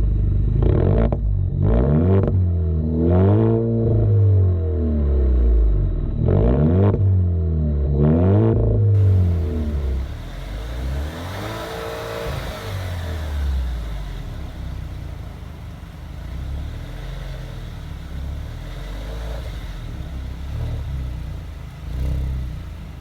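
Alfa Romeo Giulia with an aftermarket MADNESS Monza performance exhaust, revved in quick blips about five times, each rising and falling in pitch. About nine seconds in it changes to a quieter recording: one more rev, then the engine idling steadily.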